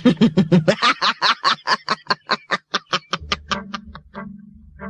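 A cartoon character's mocking laugh, a rapid run of 'ha-ha' bursts that slows and fades away over about four seconds. A low steady music tone comes in near the end.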